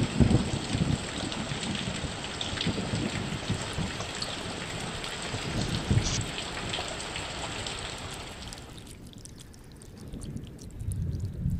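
Heavy rain falling, a steady hiss that grows quieter about nine seconds in, with low rumbles at the start and again near the end.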